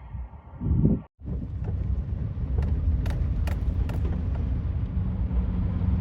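A motor vehicle driving, with a steady low rumble of engine and road noise and a few light clicks; it starts abruptly about a second in.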